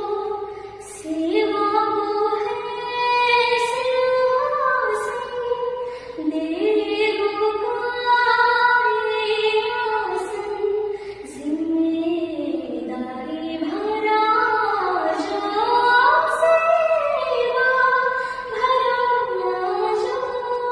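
A woman singing a Marathi song in long held notes that slide and bend ornamentally from one pitch to the next.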